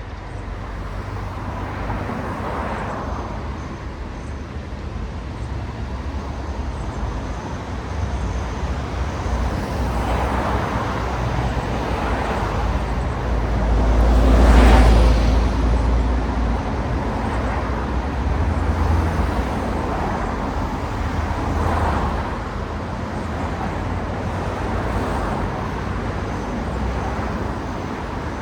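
Road traffic: a steady stream of cars passing one after another, each swelling up and fading away, with one louder, heavier vehicle going by about halfway through.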